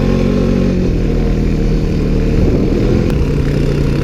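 Off-road utility vehicle engine running steadily while under way; its pitch eases down slightly in the first second, then holds.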